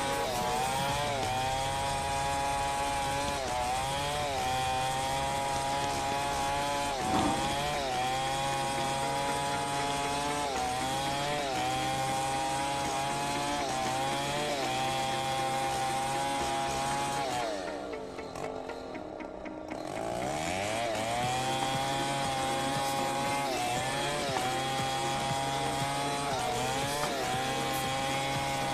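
Two-stroke chainsaw cutting into a large log at high revs, its engine pitch sagging under load every couple of seconds and recovering. About two-thirds of the way through the throttle drops off briefly, then it revs back up and cuts on.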